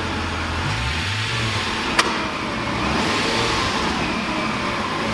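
Lamborghini Gallardo V10 engine running warm, its revs rising and falling with a brief blip of the throttle about a second in. A single sharp click sounds about two seconds in.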